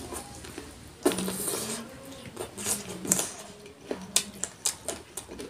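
Close-miked eating: a person chewing mouthfuls of chicken curry and rice, with a run of wet mouth smacks and clicks.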